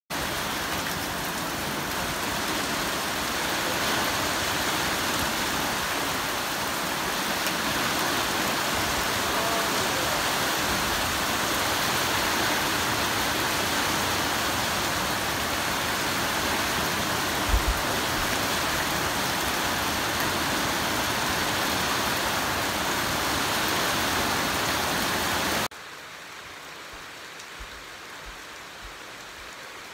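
Heavy rain drumming steadily on a corrugated metal roof, with water pouring off the roof edge, and a brief double knock a little past halfway. About three-quarters of the way through it cuts suddenly to a much quieter, lighter rain.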